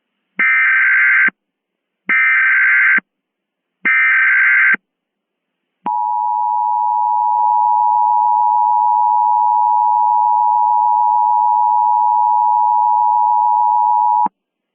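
Emergency Alert System tones: three short bursts of SAME header data about a second apart, then the two-tone EAS attention signal (853 and 960 Hz) held steady for about eight seconds before cutting off abruptly.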